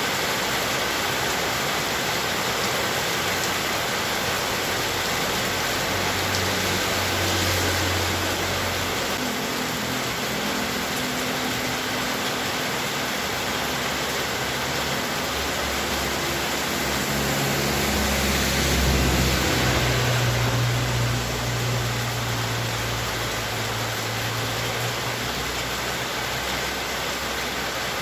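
Heavy rain falling as a steady hiss. A low rumble comes in briefly a few seconds in and again, louder and longer, past the middle.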